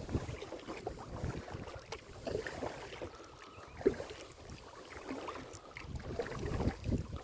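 Wind buffeting a phone microphone on a kayak, with light water splashes and small knocks, and one sharper knock about four seconds in.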